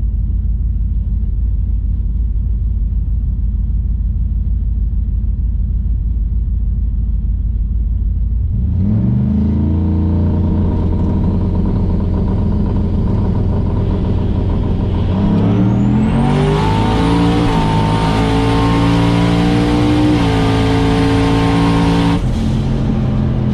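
Chevrolet Silverado drag truck's engine rumbling at idle, then launching about a third of the way in and pulling hard, its pitch climbing through the gears with drops at each shift. Near the end the engine note cuts back sharply as the run ends.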